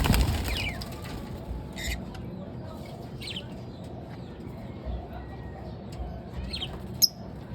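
Lovebirds giving short high chirps a few times, the sharpest and loudest one near the end, over a low rumbling background. A loud burst of noise comes right at the start.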